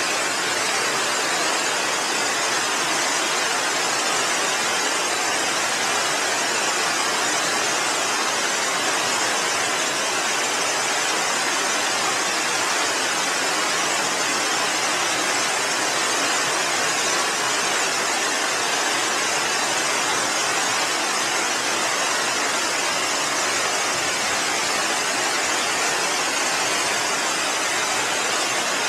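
Steady rushing of river water: an even, unbroken hiss.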